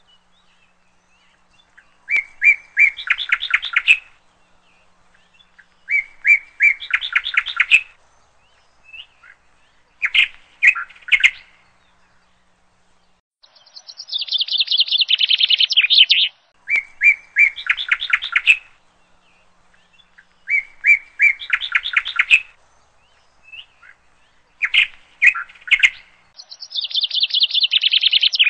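A songbird singing in a run of separate phrases, each about two seconds long with short pauses between. Most phrases are a few chirped notes running into a fast trill, and twice a higher, buzzier trill comes in.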